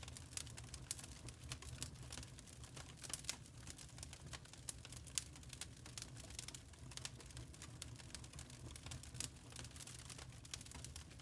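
Burning charcoal crackling: irregular, rapid small pops and ticks over a steady low rumble.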